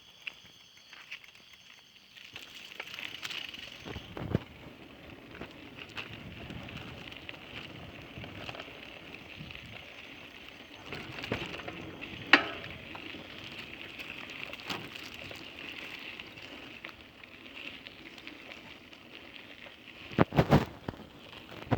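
Steady crackling noise of a bicycle ride over pavement, with sharp knocks about four seconds in and about twelve seconds in, and a quick cluster of louder knocks near the end.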